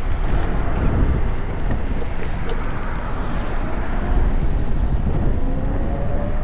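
Wind buffeting the microphone and road noise from riding a VMoto Stash electric motorcycle, a dense rumble with no engine note. Near the end a thin whine rises steadily in pitch.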